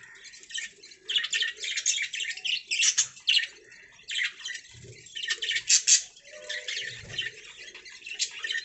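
Budgerigars chirping and warbling in a busy, continuous chatter of quick high chirps with occasional harsher squawks.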